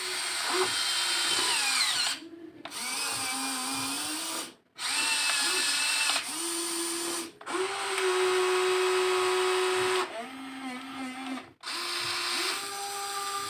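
The small electric motors and gearboxes of a WLtoys XK 16800 RC excavator whine as it digs, the pitch stepping up and down as each motion starts and stops. The sound cuts out abruptly several times.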